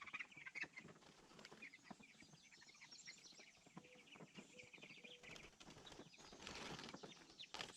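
Faint peeping and chirping of young meat chickens, many short calls, with a few soft knocks.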